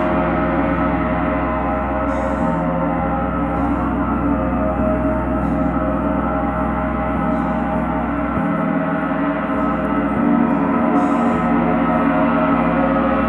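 A gong played in a continuous gong-bath style: a loud, steady, dense wash of many overlapping ringing tones, with no single strike standing out.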